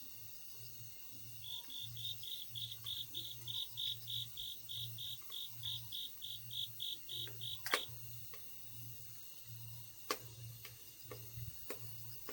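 An autumn grass insect chirping in a steady, even train of high pulses, about three or four a second, that stops about eight seconds in. Sharp pops from a burning log campfire come a few times, the loudest just as the chirping ends.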